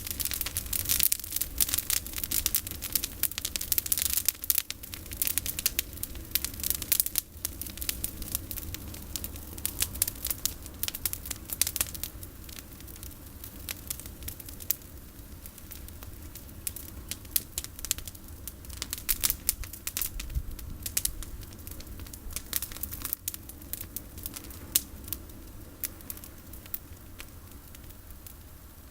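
Campfire of olive branches crackling and popping, with snaps coming thick and fast at first and thinning out over the second half.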